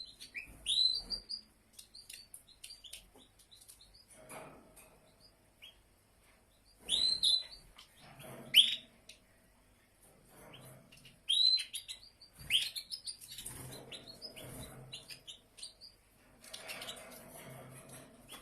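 Small songbird chirping: short, sharp upswept calls in clusters near the start, around seven to nine seconds in and again around eleven to thirteen seconds, with fainter chips and clicks in between.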